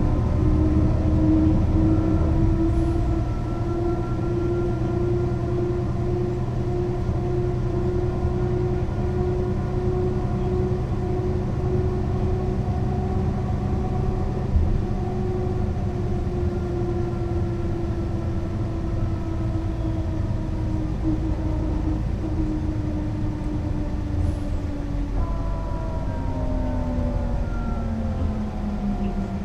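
Mercedes-Benz O 405 NÜ low-floor bus under way: a steady engine drone over low road rumble, easing off slightly about three seconds in. There is a single knock near the middle, and the engine's pitch falls over the last few seconds as the bus slows.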